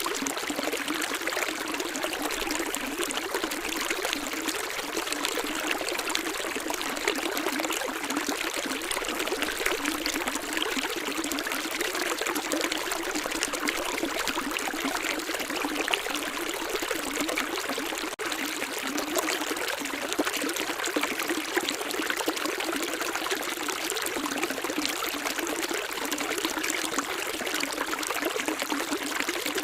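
Water running in a small stream, a steady, even splashing rush with no let-up.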